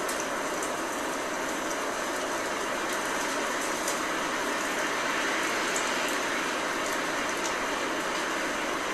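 Blizzard ambience: a steady rush of wind-driven snow and rain, even in level, with a few faint scattered ticks.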